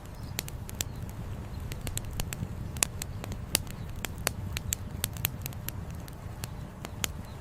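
Wood campfire crackling, with sharp irregular pops several times a second over a steady low rumble.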